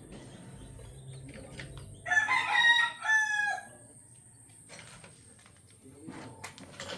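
A rooster crowing once, about two seconds in: a loud crow in two parts lasting about a second and a half, ending on a falling note.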